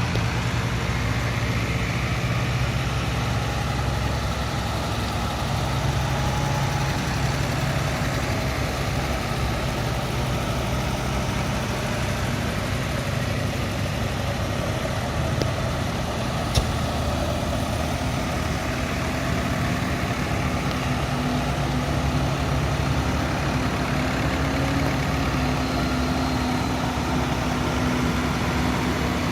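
An engine running steadily with a low, even hum and a faint tone that slowly drifts in pitch. A single sharp click sounds about halfway through.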